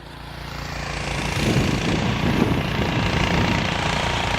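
Gasoline snow blower engine running steadily under load, its level rising over the first second or so and then holding.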